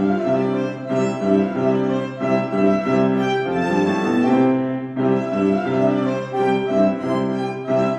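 Violin playing a melody over a bowed-string accompaniment in a steady run of notes.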